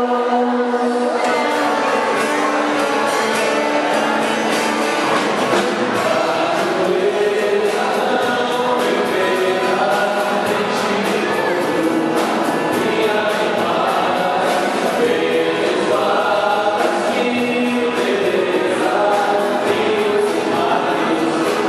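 Choir singing a song with instrumental backing. Held sung notes open it, and a steady percussive beat comes in about a second in.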